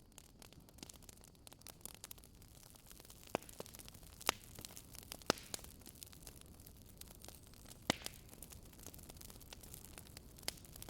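Wood fire crackling in a fireplace: irregular sharp pops and snaps over a faint steady hiss, with a few louder pops around the middle.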